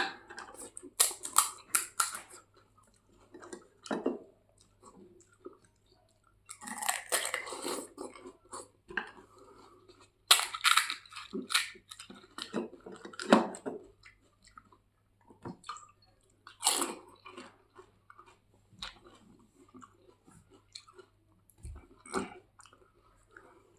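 A person eating golgappe (pani puri) fast, biting into the crisp, hollow puri shells and chewing them with loud crunches. The crunching comes in irregular bursts with short pauses between mouthfuls.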